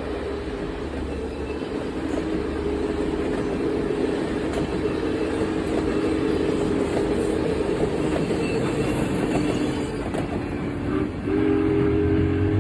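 A passing train's locomotive sounding a long multi-note chord warning blast, growing louder, with a brief break about eleven seconds in before a louder blast. The rumble and clatter of the moving train lie underneath.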